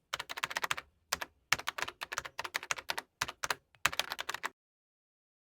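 A fast, irregular run of sharp clicks, like typing on a keyboard, that stops abruptly about four and a half seconds in.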